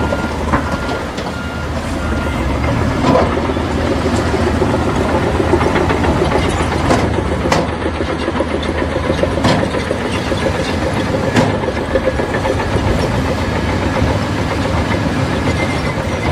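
Bulldozer's diesel engine running steadily under load, with sharp clanks and knocks every few seconds from its steel tracks and the rock being pushed.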